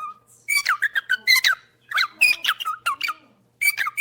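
Parrot chirping and squawking in three quick bursts of short, squeaky, falling calls.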